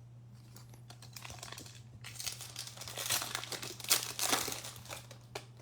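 Plastic trading-card pack wrapper being torn open and crinkled by hand, the crinkling loudest in the middle few seconds, over a steady low electrical hum.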